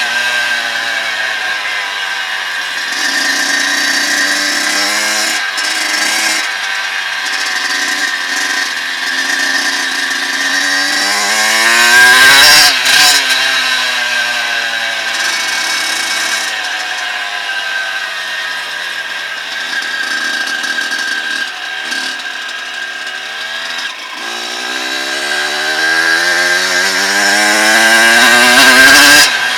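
Dirt bike engine running under way, revving up and easing off repeatedly, climbing to hard revs about twelve seconds in and again near the end before dropping away.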